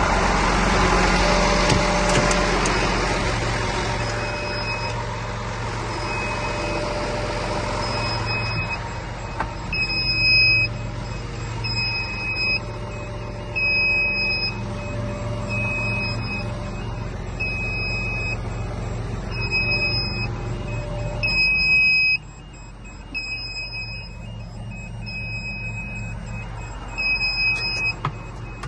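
Heavy lorry's diesel engine running, with a reversing alarm beeping about once a second. The engine rumble drops away near the end while the beeping carries on.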